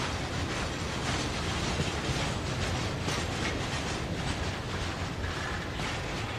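Union Pacific manifest freight train rolling past: a steady rumble from its cars, with the clickety-clack and clatter of steel wheels on the rails.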